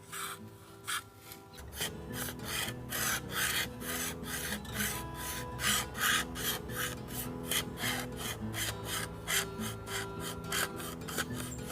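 Knife blade scraping a bamboo stalk to shave off fine tinder, in quick repeated rasping strokes of about three a second, steadier from about two seconds in.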